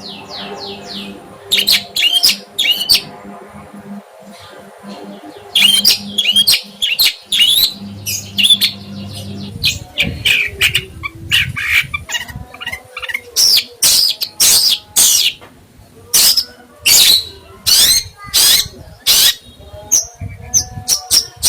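Songbird calling in a long series of loud, sharp chirps and short trills, with a quick, evenly spaced run of notes in the second half. A faint steady low hum lies under the first half.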